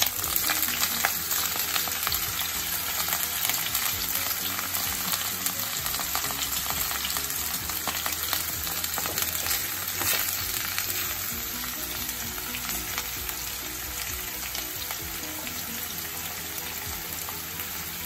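Round slices of bitter gourd sizzling in hot oil in a kadai, a dense frying hiss that slowly eases as the slices cook. A metal spoon scrapes and clicks against the pan now and then as they are stirred.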